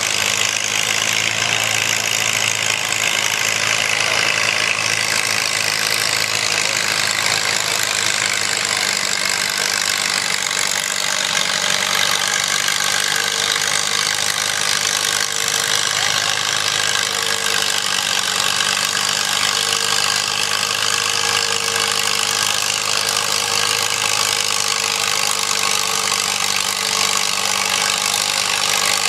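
Farmall Super H tractor's four-cylinder engine running at a steady speed. A second, higher steady tone comes and goes from about halfway through.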